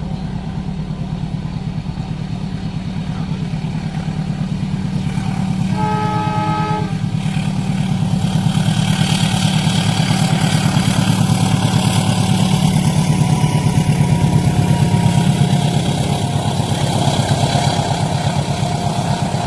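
A train passing a level crossing: a steady low engine rumble, a short horn blast about six seconds in, then the rushing clatter of the train going by, loudest in the middle and easing off near the end.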